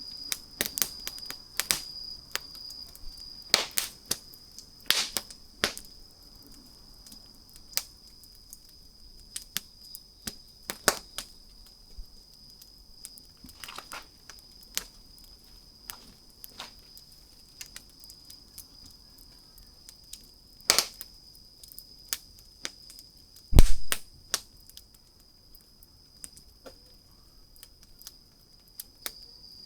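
Wood fire crackling, with scattered sharp pops and snaps at irregular intervals and one heavy, much louder thud about three-quarters of the way through. A faint steady high tone sits under the crackling.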